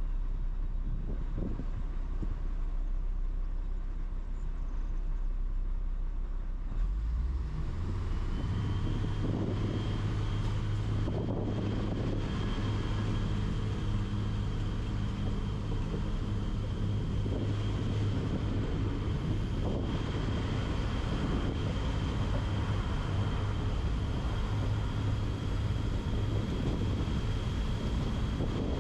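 A train running steadily, a continuous mechanical drone. About seven seconds in, a stronger low hum and a thin high whine join and hold to the end.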